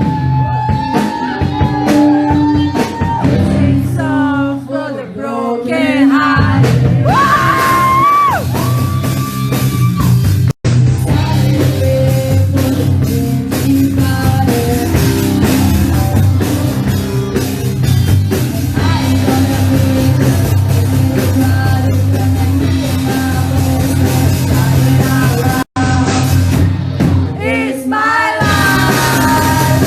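Rock band playing live with sung and shouted vocals, guitar and drums, in a large room. The sound cuts out for an instant twice.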